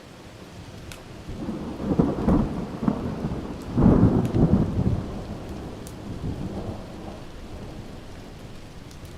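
A rolling thunderclap over steady rain. The low rumble builds about a second and a half in, swells twice, loudest about four seconds in, then dies away. A few sharp crackles from a wood fire sound over the rain.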